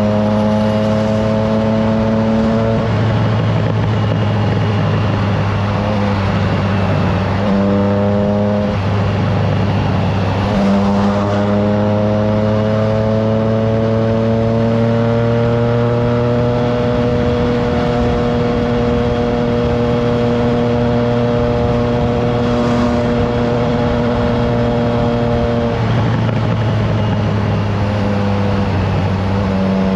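Triumph Trident 660's three-cylinder engine under way, mostly holding a steady pitch. Its note breaks and changes with throttle changes or gear shifts about 3, 8, 11 and 26 seconds in, and climbs slowly for several seconds in the middle. Wind rushes on the microphone throughout.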